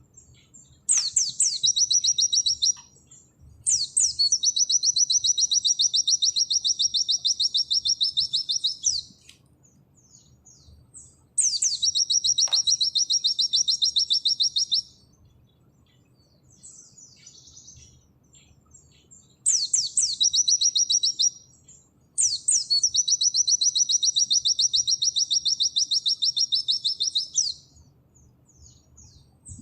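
White-eye (pleci) singing its rapid 'nembak' trill song: five loud, high, fast trills lasting about two to five seconds each, each opening with a sharp sweeping note, with soft twittering in the pauses between them.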